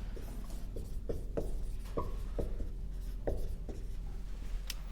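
Writing on a board during a lecture: a run of short, separate pen strokes, some with a brief squeak, about two a second.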